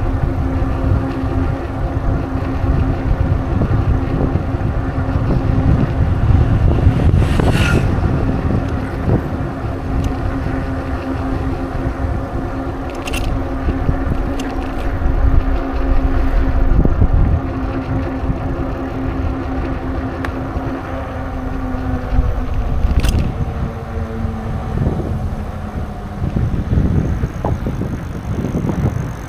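Riding a bicycle: wind rumbling on the microphone and tyre noise on the road, under a steady hum that drops in pitch and fades about three-quarters of the way through. There are a few brief clicks.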